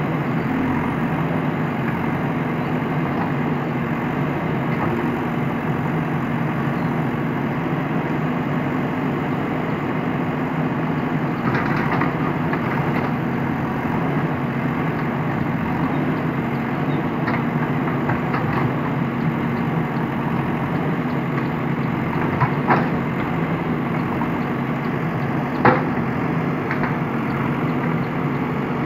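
JCB backhoe loader's diesel engine running steadily, with a few sharp knocks: a cluster about twelve seconds in and two louder ones near the end.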